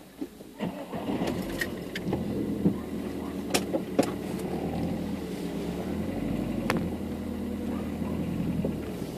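Car engine heard from inside the cabin, starting about a second in and then running steadily as the car pulls away, with a few sharp clicks over it.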